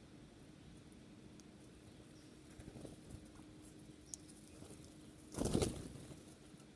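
A bird's wings flapping in one short burst about five and a half seconds in. Before it there are a few faint clicks and taps over a faint steady hum.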